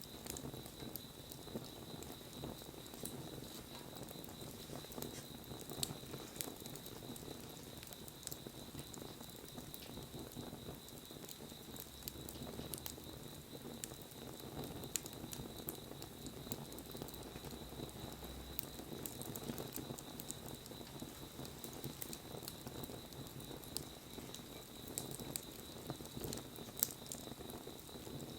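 Wood fire burning: a low steady rush of flames with many small scattered crackles and a couple of sharper pops, one about six seconds in and one near the end.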